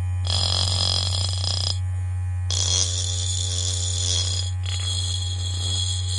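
A small motor running with a steady low hum. A higher whine cuts in and out several times.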